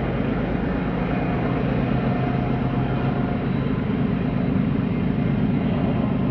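Diesel freight locomotives running with a steady engine drone and a low hum.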